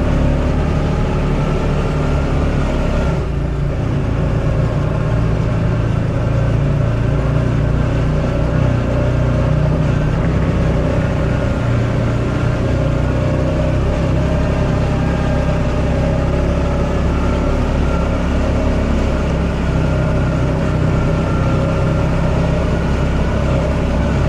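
Off-road buggy engine running steadily with a low, even hum while being driven, with a brief dip about three seconds in.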